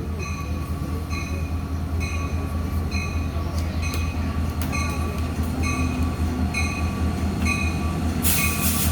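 Diesel locomotive of an arriving passenger train rumbling, slowly growing louder, while a bell rings steadily about once every three-quarters of a second. A short burst of hissing comes near the end.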